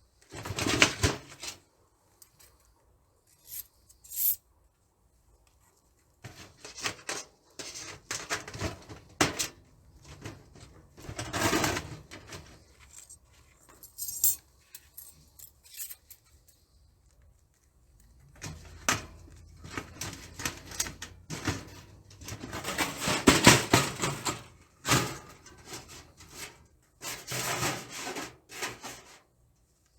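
Thin titanium stove panels being handled and fitted together: irregular bursts of metal clattering, scraping and rubbing with quiet gaps between them, the loudest and longest stretch about two-thirds of the way through.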